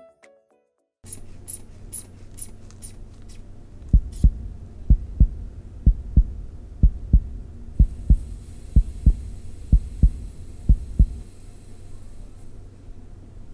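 Korotkoff sounds of a blood pressure reading, heard through a stethoscope as the cuff deflates: paired heartbeat thumps about once a second, starting about four seconds in and stopping about eleven seconds in, over a faint steady hum. The first thump marks the systolic pressure and the last marks the diastolic.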